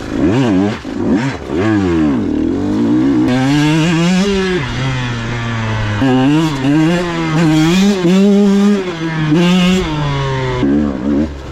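KTM 125 XC two-stroke single-cylinder dirt bike engine revving under a working throttle: quick rising and falling blips in the first couple of seconds, then held higher revs that rise and fall repeatedly.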